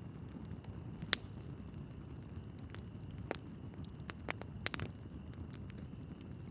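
Wood fire burning in a fireplace: a steady low rumble of flames with scattered sharp crackles and pops from the burning logs, the loudest pop about a second in and a quick cluster of crackles near the end.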